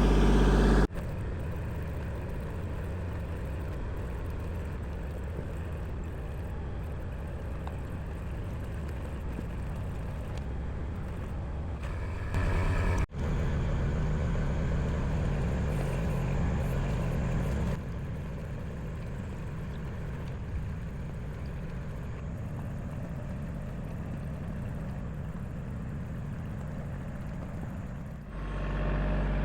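Engine of a digging machine running steadily as a low rumble while the ground is dug out. The sound jumps abruptly a few times, and is a little louder briefly around halfway through.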